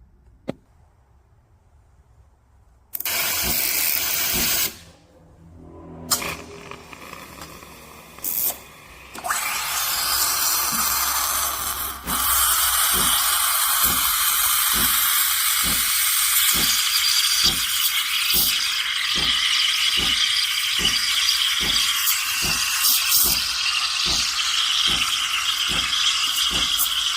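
CASABREWS espresso machine running. A few short loud bursts come in from about three seconds in, then a steady loud noise from about nine seconds in that carries on, with a faint rhythmic pulse underneath.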